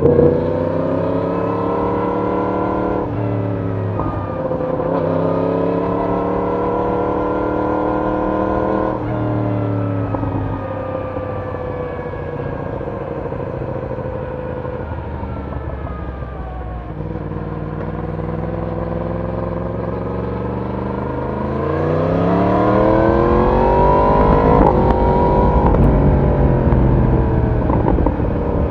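Yamaha YZF-R1 inline-four engine and exhaust under way, the pitch climbing through a gear and dropping sharply at upshifts about 3 and 9 seconds in. The revs sag around the middle, then the engine pulls hard again, pitch rising steeply until a shift near the end.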